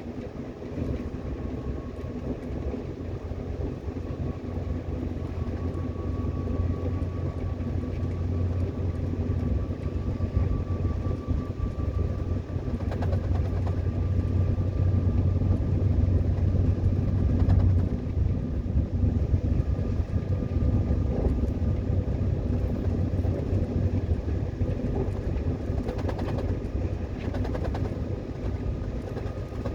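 Subway train running, heard from inside the car: a steady rumble of wheels on track with a faint whine that rises slightly in pitch, louder through the middle and easing a little near the end.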